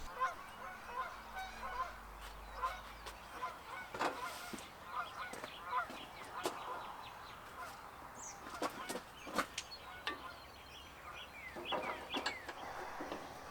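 Faint calls of fowl, short and scattered, with a few light clicks in between.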